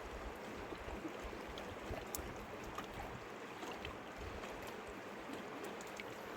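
Mountain river water running steadily, with a few faint clicks.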